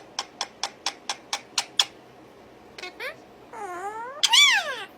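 A cat meowing twice near the end, the second call rising and falling in pitch and louder. Before it, a quick run of about eight sharp clicks, roughly four a second, over the first two seconds.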